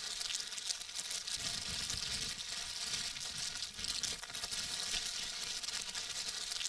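Steady crackly rustling of packaging being handled, with a few soft low bumps about two seconds in.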